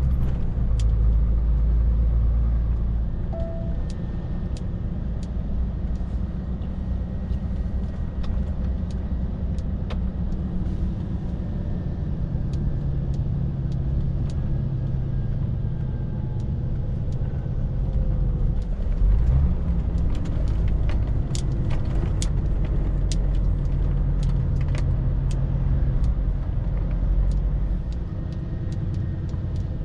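Scania R450 lorry's 13-litre six-cylinder diesel running under way, a steady low drone with road noise whose pitch shifts a few times, notably about 3 seconds in and again around 19 seconds. Scattered sharp ticks sound over it, most of them in the later half.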